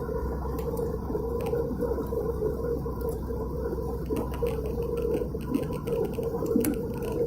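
Steady cabin noise of an Airbus A320 in flight: engine and airflow drone heard from inside the passenger cabin, with a constant hum.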